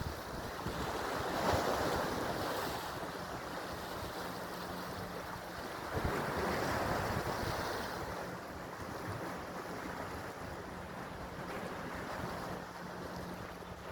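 Sea waves washing in, swelling twice, about a second in and again about six seconds in, with wind buffeting the microphone. A steady low hum runs underneath.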